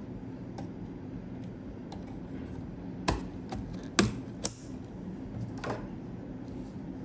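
Hard parts being handled: a few sharp clicks and taps, clustered between about three and six seconds in and loudest about four seconds in, over a steady low hum.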